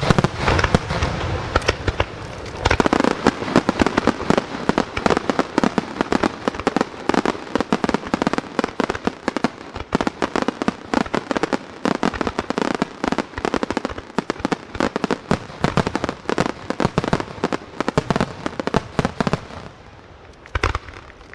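Aerial firework shells bursting in rapid succession, a dense barrage of overlapping bangs and crackles that thins out and dies away near the end.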